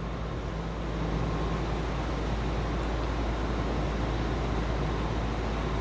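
Steady low rumble of vehicle noise, with a faint steady hum and no distinct events.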